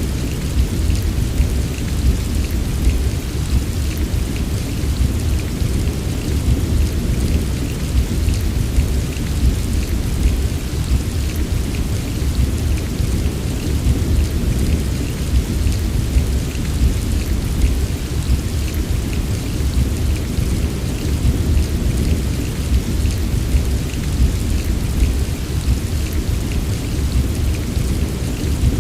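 Steady heavy rain, a dense patter of drops over a constant low rumble, unchanging throughout.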